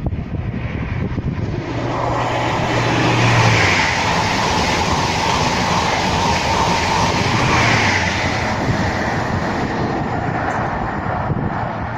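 A train passing along the line: a broad rushing noise that builds about two seconds in, swells twice and eases off near the end.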